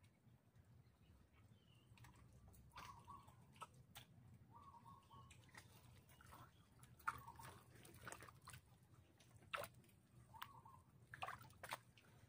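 Near silence: a few faint, brief bird calls and scattered soft clicks.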